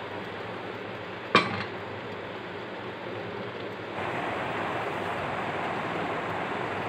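Green moong dal dosa sizzling in oil in a pan under a glass lid: a steady hiss that grows louder about four seconds in, with one short click about a second and a half in.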